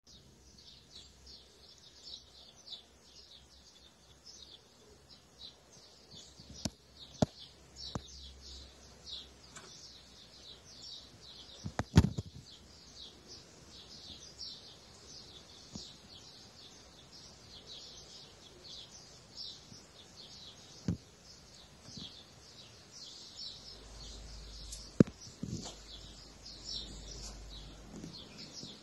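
Many small birds chirping continuously in quick, overlapping chirps, with a few sharp knocks or clicks scattered through, the loudest about twelve seconds in.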